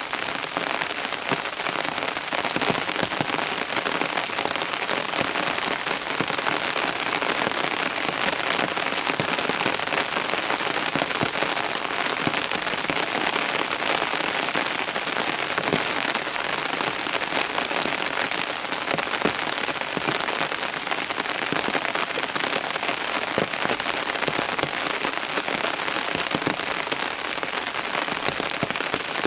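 Steady heavy rain falling on surfaces, a dense hiss of countless drops with individual drop ticks and patters scattered through it.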